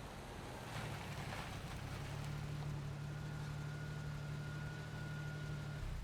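Car engine running with a steady low hum that grows louder about a second in, with a faint thin whine over it, then drops away abruptly near the end.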